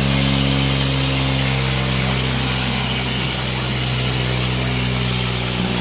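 Diesel tractor engine running at a steady speed, holding one even pitch.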